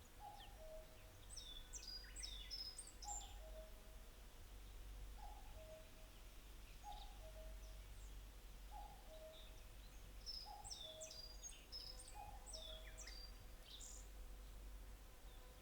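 Faint wild birdsong: one bird repeats a low two-note call, the second note lower, about every two seconds, stopping shortly before the end, while another bird sings quick high chirping phrases twice, near the start and about two-thirds of the way through.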